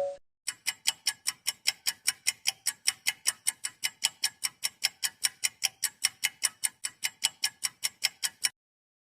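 Clock ticking sound effect: a fast, even run of sharp ticks, about five a second, that starts about half a second in and stops shortly before the end.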